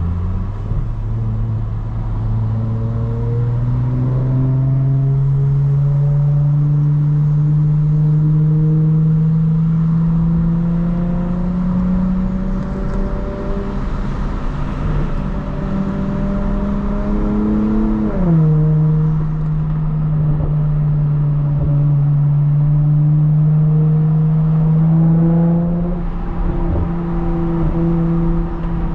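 Lexus IS350's V6 engine, loud through a Tsudo mid-pipe with no secondary cats and a muffler-delete axle-back, pulling under light throttle with its pitch climbing slowly. About two-thirds of the way through it drops sharply on an upshift, then rises gently again and holds steady.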